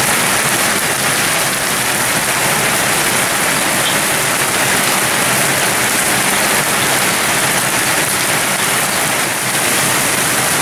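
Heavy rain pouring down, a steady, even hiss of drops.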